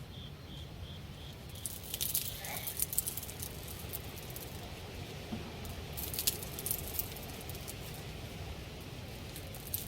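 A steady high chirp pulsing about four times a second stops about a second and a half in. It gives way to scattered sharp clicks and rustles in two bursts, about two seconds in and about six seconds in, over a steady low rumble.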